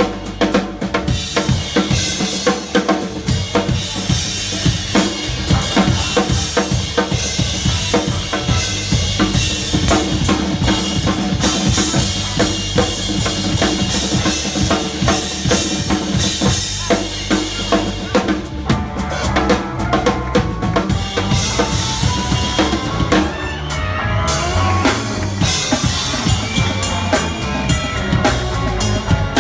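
Live rock band playing, with the drum kit loud and up front: a steady beat of bass drum, snare hits and rimshots under ringing cymbals, with bass and other instruments behind. The cymbals drop out briefly about three-quarters of the way through, then the full beat comes back.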